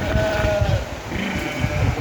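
Sheep in a flock bleating, two calls overlapping one after the other, with a low irregular rumble underneath.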